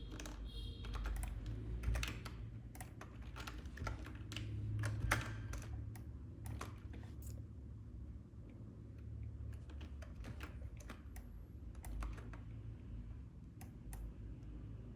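Computer keyboard keys being pressed in irregular clicks, thick during the first half and sparser after, over a steady low hum.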